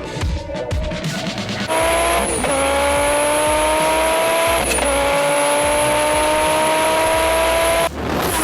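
Twin-turbocharged Audi R8 5.2-litre V10 accelerating hard at high revs, the engine note climbing and dropping twice at upshifts, with a high turbo whistle over it. It cuts in about two seconds in after music and cuts off suddenly near the end.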